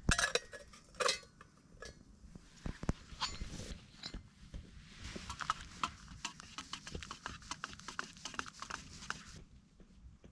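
Metal camp cookware and utensils clinking and rattling as a brew is made: a few louder ringing clinks near the start, then a run of quick light clinks from about five seconds in until shortly before the end.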